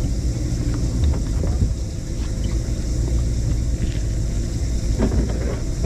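Steady low rumble of a sportfishing boat's engines running.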